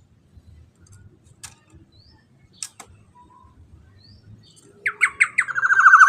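Black-naped oriole (kepodang emas) calling. After a near-empty stretch with a couple of faint clicks, a few short notes come about five seconds in, leading straight into a long, harsh, rasping call that is still going at the end.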